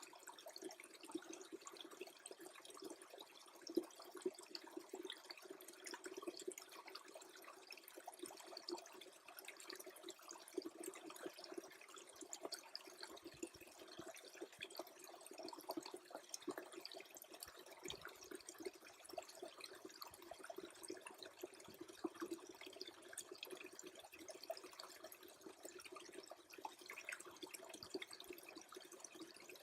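Faint trickling and gurgling of a small stream that is freezing over, with many tiny drips and ticks scattered through the steady flow.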